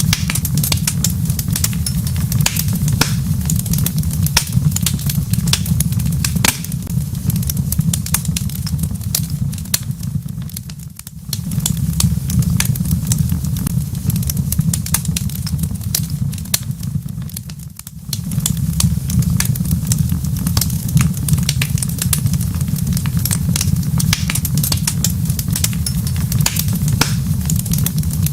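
Wood fire crackling in a fireplace: a steady low rumble of burning with many sharp pops and crackles over it. The sound dips briefly twice, about eleven and eighteen seconds in.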